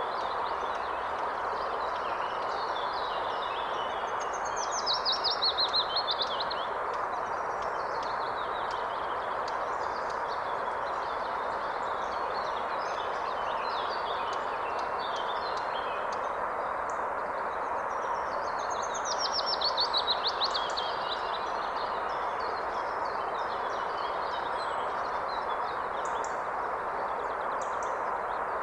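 Steady rush of a river, with songbirds singing over it. Twice, about five seconds in and again near twenty seconds, a nearer bird sings a louder phrase: a fast run of notes falling in pitch.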